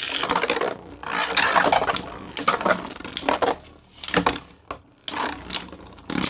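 3D-printed plastic Beyblade tops spinning in a stadium: a dense rattling scrape for the first two seconds, then a run of sharp clicking knocks as the tops hit each other and the stadium wall.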